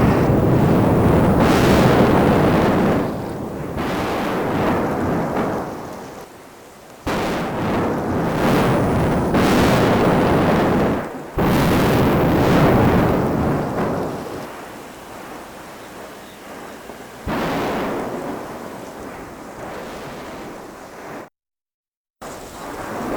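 Mount Etna erupting: a loud, deep rumbling roar in several stretches, some starting abruptly, with a short dead-silent break near the end.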